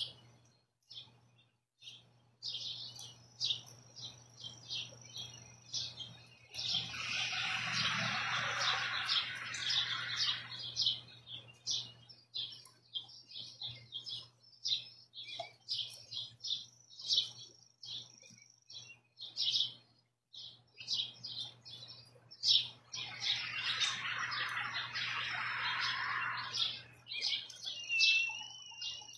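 Small birds chirping in many short, high chirps, with two denser, louder stretches of a few seconds each.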